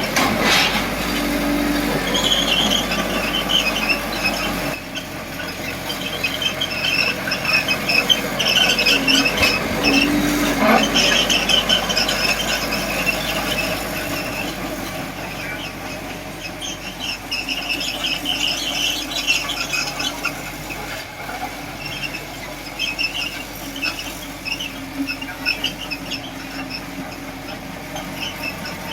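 Small D20P crawler bulldozer working, its steel tracks squealing in short, repeated high squeaks over the low drone of the machine.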